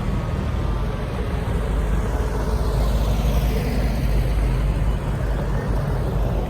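Antique and classic cars driving past, with a steady low engine rumble.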